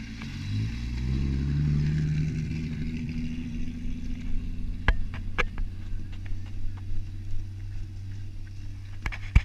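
Holden VS Commodore's supercharged 3.8-litre V6 revving up as the car pulls away on a dirt track, then running on steadily at lower revs. A few sharp clicks come midway, and a louder pair near the end.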